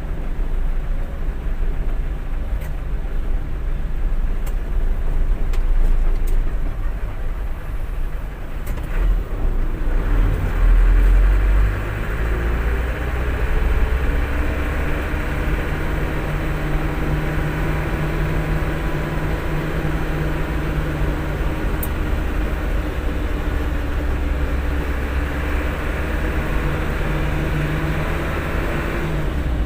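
Truck engine running with a steady low rumble. About ten seconds in its pitch rises, then holds fairly steady.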